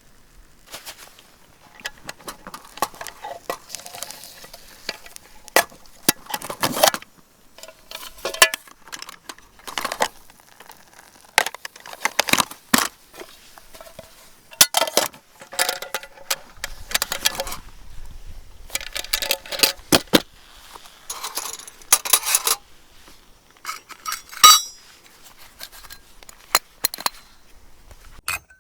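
Metal camping gear being handled: irregular clinks and clanks of metal on metal, some ringing briefly, with pauses in between.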